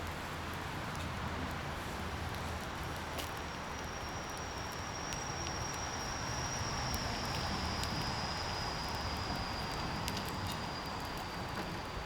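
Rushing mountain river water, a steady unbroken noise. About three seconds in, a thin high whine joins it and slowly sinks in pitch.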